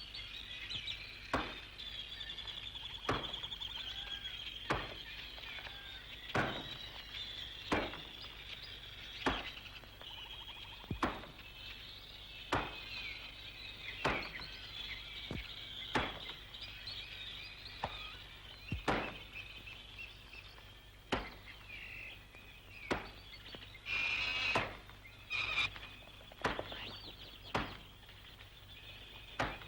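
A regular series of sharp knocks, about one every second and a half, with birds chirping in the background.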